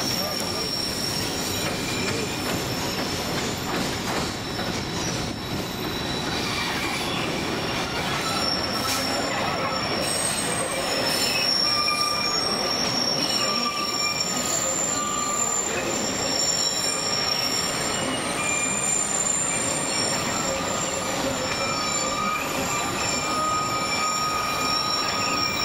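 Narrow-gauge diesel sightseeing train running around a curve, heard from an open passenger car: the wheels squeal against the rails in several steady high-pitched tones that come and go over the continuous rattle and rumble of the cars.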